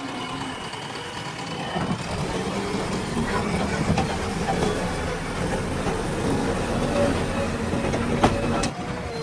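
Diesel engine of a heavy earth-moving machine running steadily, with a sharp knock near the end.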